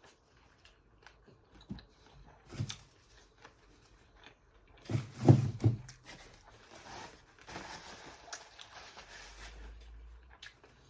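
Close-up chewing and lip-smacking while eating crispy fried catfish by hand, with scattered small crunches and clicks. There is a louder burst about five seconds in.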